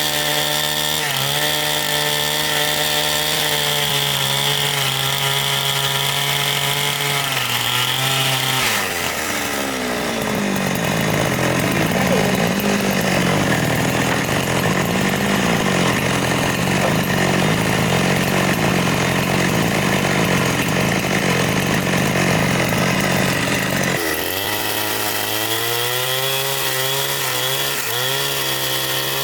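Two-stroke chainsaw running at high revs, then bogging down in pitch about nine seconds in as it cuts through wood under load, and revving back up when it comes free near the end.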